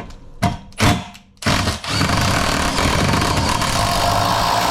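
Power driver with a Torx bit running steadily as it backs out a bus seat's floor bolt, after a couple of short knocks as the bit is set on the bolt.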